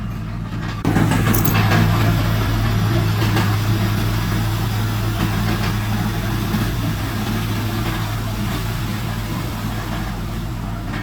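Heavy earthmoving machine's diesel engine running steadily with a low hum, getting suddenly louder and noisier about a second in.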